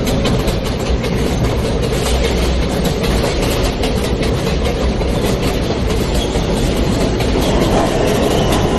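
New York subway J train running between stations on the elevated Broadway line, heard from inside the car: a steady rumble of wheels on rail with fast clicking from the track.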